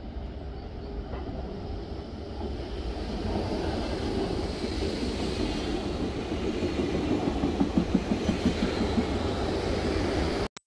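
RER C Z 20500 double-deck electric train running along the station platform. Its rumble grows louder through the middle, and later its wheels click rapidly and regularly over rail joints.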